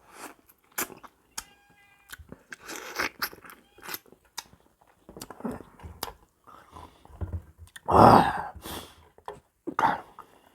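Close-up chewing and biting of buffalo-trotter pickle with rice, with wet mouth clicks and lip smacks. The crunches come in an uneven run, with a louder, longer burst about eight seconds in.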